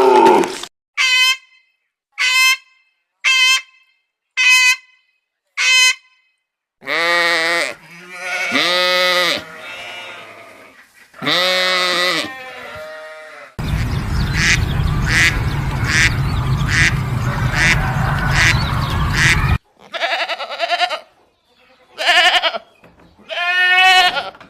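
A series of farm-animal calls spliced from separate clips. Five short, evenly spaced calls come first, then several long, wavering bleats. A stretch of rough noise with regular clicks follows about halfway through, and more bleats come near the end.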